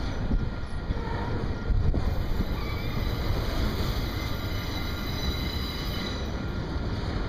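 Double-stack container train's well cars rolling past close by: a steady rumble of steel wheels on rail with a couple of clanks early on and a thin high wheel squeal through the middle.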